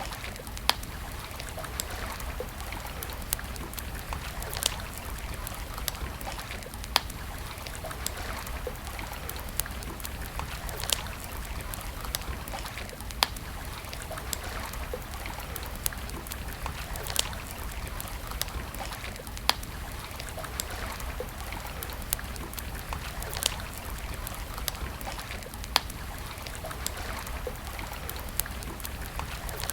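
Wood campfire crackling, with sharp pops every second or two, a few of them louder, over a steady rushing hiss.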